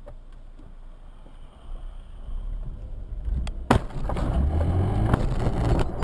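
Car in motion heard from inside: low road noise swells into a loud rumble, with a single sharp bang about three and a half seconds in, the sound of a collision.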